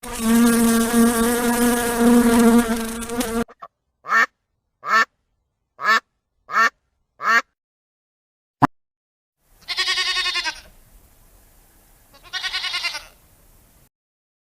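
A steady, even insect buzz for about three and a half seconds. Then five short, falling animal calls in quick succession, a single sharp click, and two longer calls near the end.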